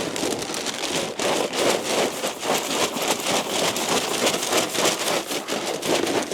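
Dense, steady rustling and crackling of hay being handled and eaten by hanwoo cattle at the feed trough.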